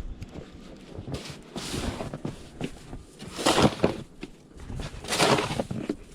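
Footsteps crunching in snow, uneven, with a few louder crunches a second or two apart.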